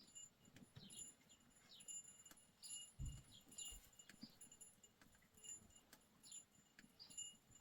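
Faint, intermittent jingling of small bells, with short high chirps scattered through it and a soft low thump about three seconds in.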